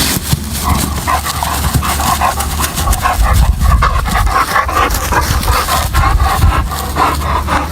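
A dog making quick, repeated short calls, over a steady low rumble.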